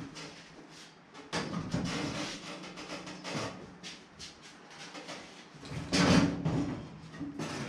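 Sheet-metal car body panels being pulled apart and handled, with irregular clunks and scraping, the loudest about a second and a half in and again near six seconds.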